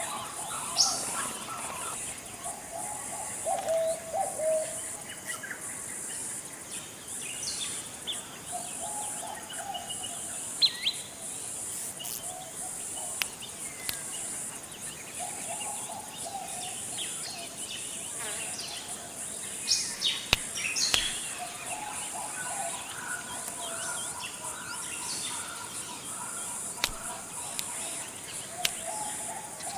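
Tropical forest ambience: a steady high-pitched insect drone under several birds calling, with recurring warbled phrases lower down and scattered short, sharp chirps higher up.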